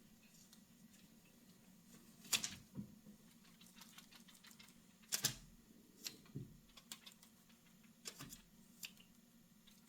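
Scattered light taps and knocks at uneven intervals, two of them louder, a little after two seconds in and about halfway through, over a faint steady low hum.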